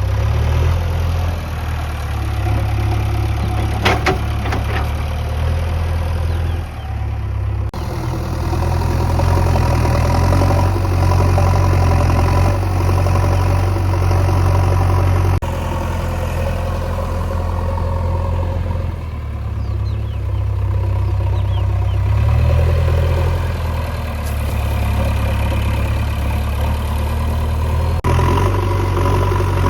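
Heavy diesel engine running steadily, its rumble shifting in speed and load now and then and breaking off abruptly a few times.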